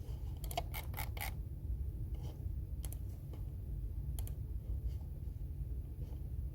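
Computer keyboard keys being typed: a quick run of about five keystrokes in the first second and a half, then single, unhurried key presses about a second apart, over a steady low hum.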